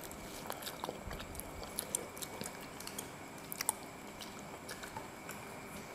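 People chewing and biting fried skewered street snacks (sempol) close to the microphone, with a few small sharp clicks and smacks, the clearest about two seconds in and a little past the middle.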